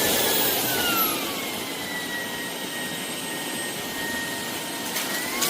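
Shark PowerDetect cordless stick vacuum running. Its motor whine falls in pitch and gets quieter over the first second, holds steady, then dips again near the end: the vacuum adjusting its suction power automatically to the amount of dirt it senses.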